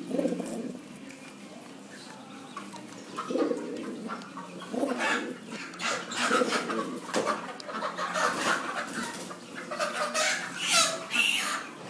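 Domestic birds calling: low pigeon coos among clucking fowl. The calls come again and again and grow busier and more crowded about halfway through.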